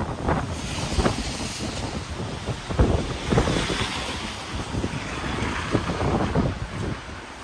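Gusty wind buffeting the microphone: a low, irregular rumble with a rushing hiss that swells and eases, strongest about a second in and again around three seconds.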